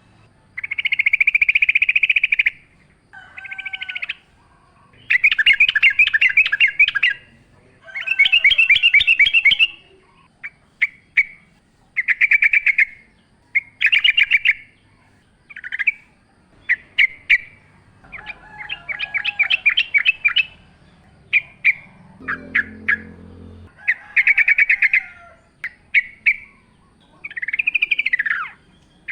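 Yellow-vented bulbul singing in the wild: a run of short, bubbling, liquid phrases of one to two seconds each, repeated with brief chirps and pauses between them. A short low croaking sound comes in about three-quarters of the way through.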